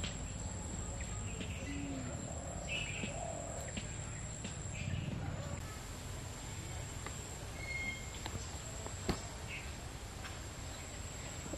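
Outdoor ambience with birds chirping and calling on and off, including a short clear whistled note about eight seconds in, over a steady high whine and low background rumble; a single sharp click about nine seconds in.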